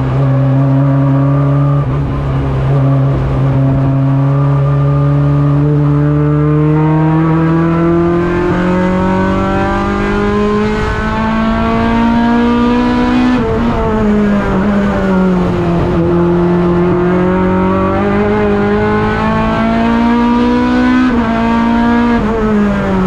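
Honda Integra (RSX) race car's four-cylinder engine under way from inside the stripped cabin. Its note holds steady, then climbs slowly in pitch and drops sharply about 13 seconds in, sags, climbs again and drops once more near the end.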